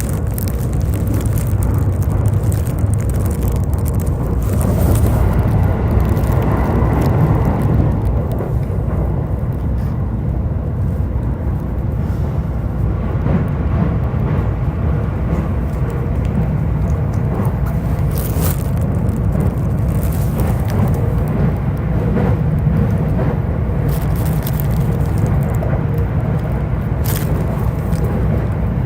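JR East E531 series electric train running along the line, a steady low rumble of wheels and running gear with a few brief sharp noises in the second half.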